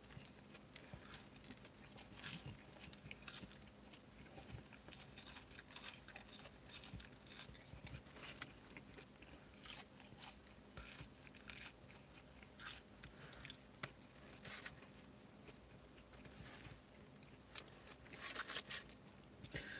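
Faint chewing and mouth sounds of a man eating French fries, with soft paper rustling near the end as his hand goes into the fries bag.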